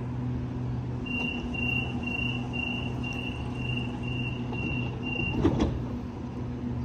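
A steady low machine hum with a high electronic beep repeating about twice a second for around four seconds, then two sharp clicks.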